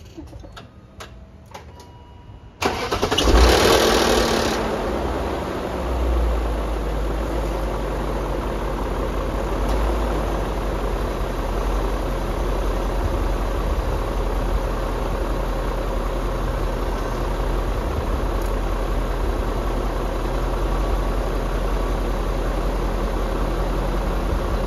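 A few faint clicks, then about three seconds in the BMW S62B50 V8 of an E39 M5 cranks, fires and flares up loudly, with a brief timing-chain rattle before the newly replaced chain tensioner fills with oil, which is normal on this first start. It then settles into a nice, even and quiet idle.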